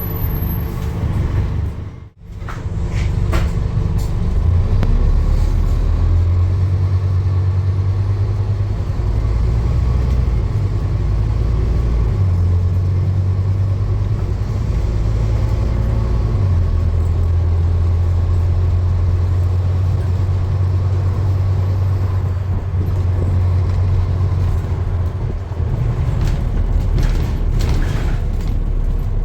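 Steady low rumble of a running vehicle, with a brief drop-out about two seconds in.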